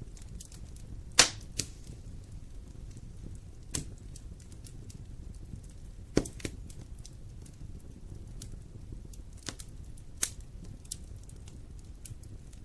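Wood fire burning in a fireplace: a steady low rumble with scattered sharp crackles and pops, the loudest about a second in and about six seconds in.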